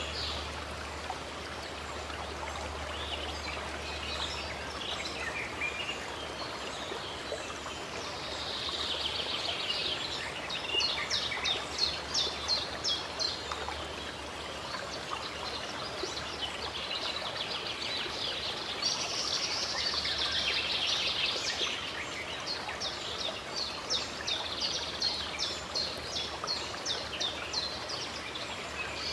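Running water flowing steadily, with birds singing over it in two long runs of quick, repeated high chirps, about a third of the way in and again past the middle.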